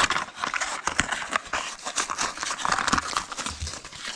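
Plastic blister pack and cardboard backing of a die-cast toy motorbike being torn and pried open by hand: crackling, crinkling plastic with many quick clicks and snaps.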